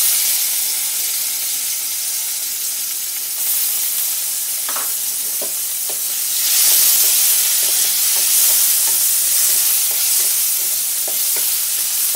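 Chopped tomato sizzling in hot mustard oil in a metal kadai, with a wooden spatula stirring it; the sizzle starts suddenly as the tomato goes in and grows louder about six seconds in, with a few light knocks of the spatula against the pan.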